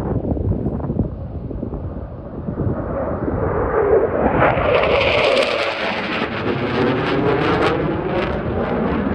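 Low-flying military jet passing by: loud, continuous jet noise that builds to a peak around five seconds in, with a sweeping, phasing whoosh as the aircraft goes over.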